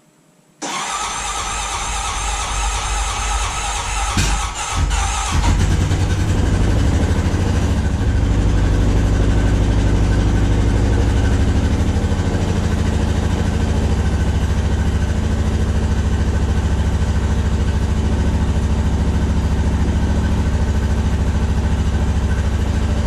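2023 Honda Rubicon 520 ATV's single-cylinder engine cold-started well below freezing: the starter cranks for about four and a half seconds before the engine catches, then it idles steadily. The long crank is the struggle to start that the owner puts down to the cold, with little use and no known fault.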